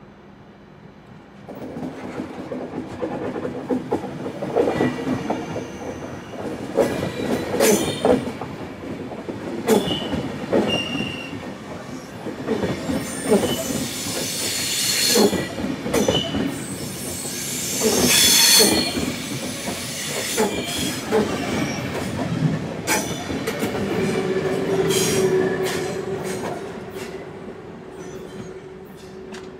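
Train running into the station, its wheels clacking over points and rail joints with short bursts of high wheel squeal. Near the end it grows quieter and a steady hum takes over.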